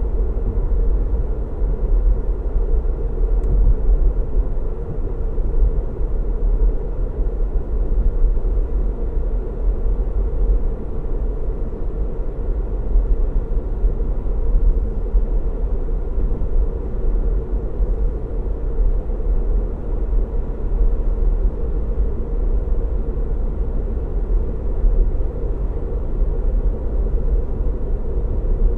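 Steady road noise of a car driving at cruising speed: a deep, even rumble of tyres and engine, with no changes in speed.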